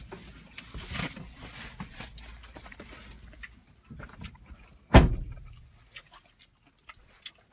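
Handling and shuffling noises, then one heavy, loud thump about five seconds in.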